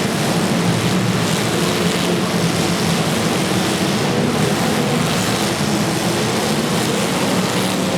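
Several demolition derby cars' engines running loud together, a steady dense racket with no single crash standing out.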